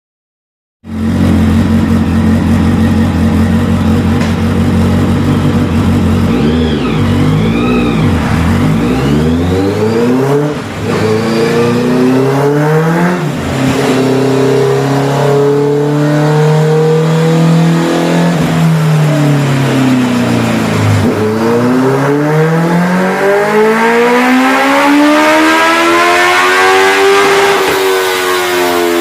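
Honda CBR650F inline-four engine through an aftermarket exhaust, idling steadily from about a second in, then revving up and down repeatedly, with a long rise in pitch near the end that drops sharply and climbs again.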